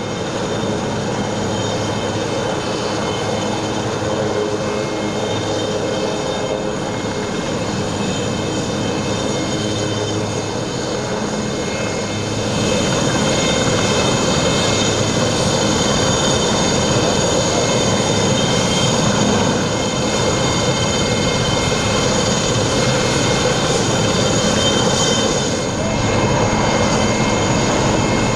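A formation of twin-turbine IAR-330 Puma helicopters flying by, a steady turbine whine over rotor and engine noise that grows louder about twelve seconds in.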